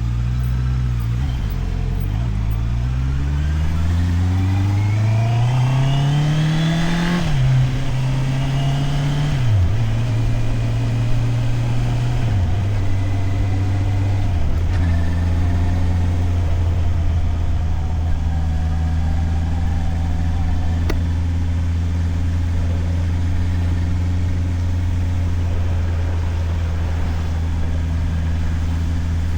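Motorcycle engine accelerating through the gears: its pitch climbs steadily for several seconds, then drops at a gear change about seven seconds in and twice more soon after. It then settles into a steady low running note for the rest.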